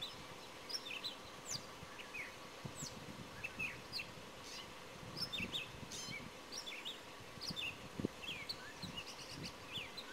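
Small birds chirping faintly: many short, quick high chirps, scattered throughout. Under them runs a faint steady hum, and there is a brief low thump about eight seconds in.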